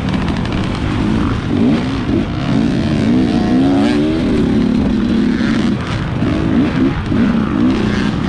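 Off-road motorcycle engine revving up and down, its pitch climbing several times as the rider accelerates.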